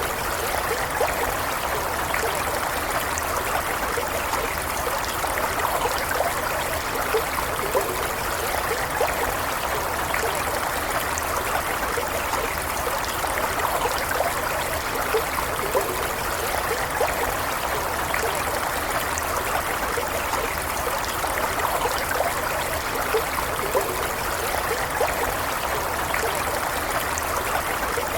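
Stream water flowing steadily, a continuous babble and trickle with small splashes and gurgles.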